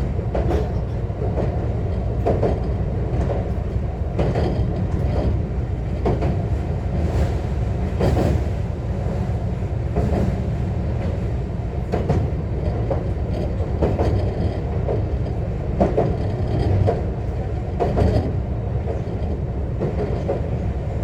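JR West 125 series electric railcar running along the line, heard from inside the car: a steady low rumble of wheels on rail, with a sharp clack every second or two as the wheels pass over rail joints.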